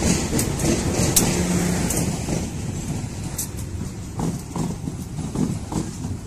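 Passenger train passing close by: the diesel locomotive's engine running as it goes past, then the coaches rolling by with their wheels knocking over the rail joints in the second half.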